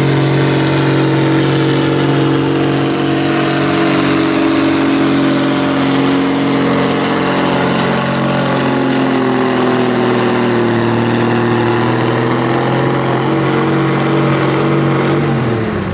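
Pulling tractor's engine at full throttle under heavy load while dragging the sled down the track. Its pitch sags slowly as the load builds, then drops sharply near the end as the throttle is cut.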